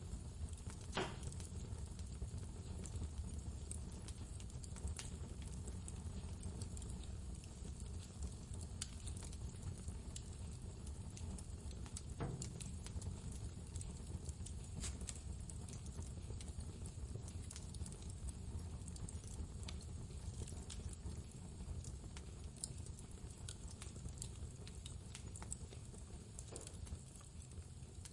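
Steady low blizzard wind with a wood fire crackling over it: scattered sharp pops and snaps, a louder one about a second in and another about twelve seconds in.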